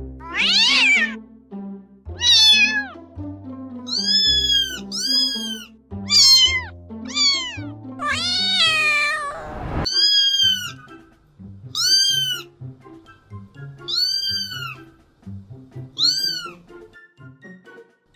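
Cats and kittens meowing, about a dozen separate meows one every second or two, several of them high and arching in pitch, one longer meow about eight seconds in. Background music with low sustained notes plays underneath.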